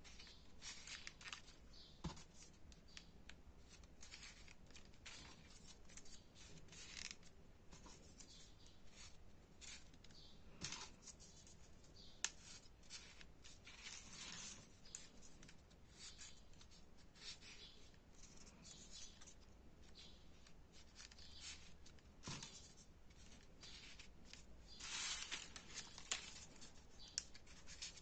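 Faint paper rustling and crinkling as small folded paper units are handled and pushed together, with a few sharp little clicks.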